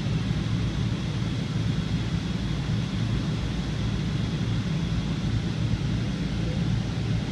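Rolls-Royce jet engines of a Boeing airliner heard from inside the cabin: a steady low rumble with a faint, even high whine above it.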